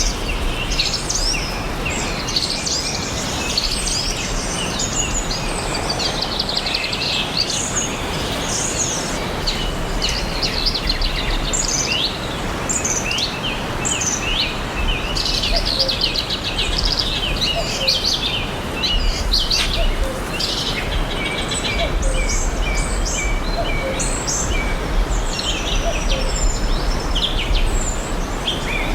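Many forest birds chirping and singing together, with quick trills and short sweeping notes overlapping continuously, over a steady background hiss.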